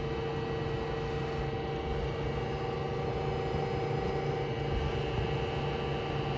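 Mazak Slant Turn 450 slant-bed CNC lathe running under power: a steady mechanical hum with a constant whine held over it.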